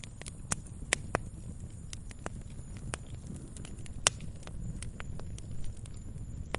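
Wood campfire crackling, with irregular sharp pops, the loudest about four seconds in, over the low steady rush of the burning fire.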